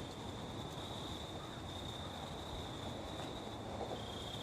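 Insects trilling steadily in one high, unbroken tone, over soft outdoor background noise.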